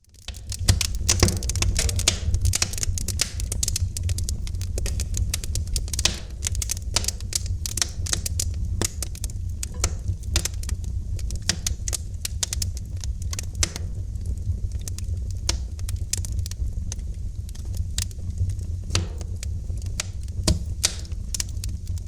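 Wood fire crackling in a fireplace: dense, irregular sharp pops and snaps over a steady low rumble of the burning fire.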